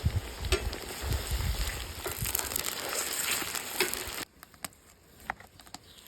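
Food sizzling and frying in a pot over a campfire, with scattered clicks and knocks, stopping abruptly about four seconds in; a few faint pops follow.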